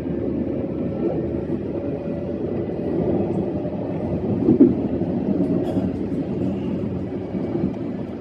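E131 series electric train running along the track: a steady rumble of wheels on rail with a faint steady whine, and one louder knock about four and a half seconds in.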